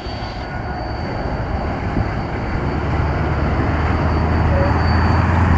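Freight train rolling past with a dense, steady rumble, and a low diesel drone growing louder toward the end.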